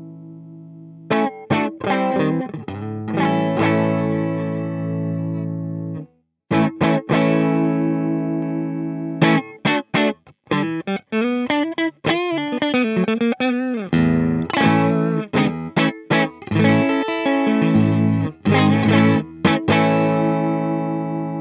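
Electric guitar with single-coil pickups played through a Peace Hill FX TR tube preamp: strummed chords left to ring, a short break about six seconds in, then single-note phrases with bends and vibrato around the middle before the chords return.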